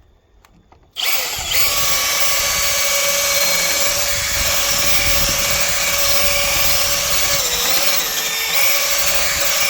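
Power drill running continuously for about nine seconds, starting about a second in, with a steady whine that sags briefly twice near the end as the bit meets resistance.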